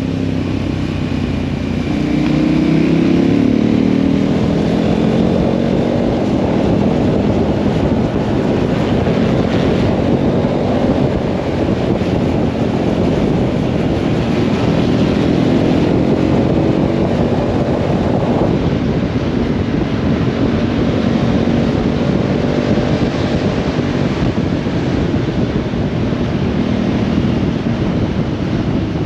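Motorcycle engine running under way, its note rising and falling with the throttle, over heavy wind noise.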